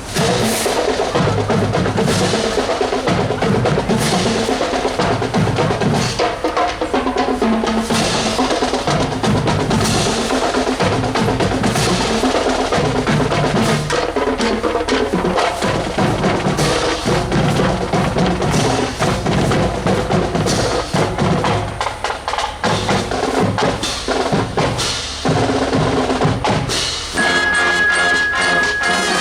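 Marching band drum line playing a street cadence on snare and bass drums, dense and rhythmic. Near the end, held tones come in over the drums.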